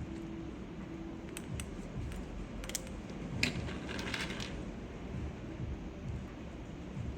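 Scattered small clicks and clinks of hard keyboard parts being handled during assembly, with a short cluster of them about four seconds in, over a steady low background rumble.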